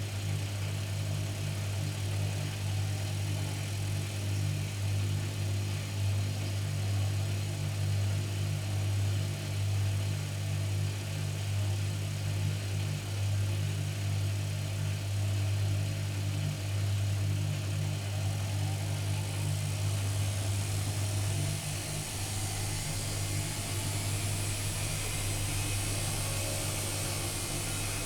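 AEG Öko-Lavamat 85769 washing machine running with a steady low hum. About three quarters of the way through, the hum weakens and a hiss grows louder.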